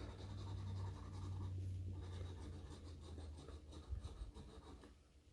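Scratching the coating off a lottery scratch-off ticket, a run of quick rasping scrapes, over a low steady hum.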